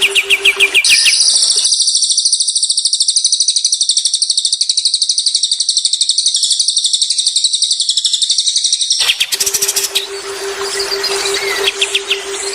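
Songbird song used as a training recording for cage birds. It opens with quick high chirps, then a very fast, high-pitched trill held for about eight seconds, then varied chirps again. A steady low pulsing tone runs under the chirps before and after the trill.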